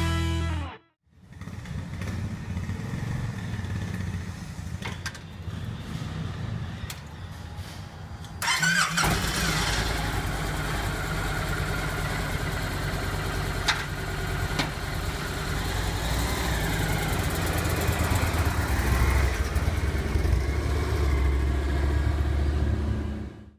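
Victory Vision motorcycle's V-twin engine running. About eight seconds in it becomes suddenly louder and fuller, then keeps running steadily until it cuts off abruptly.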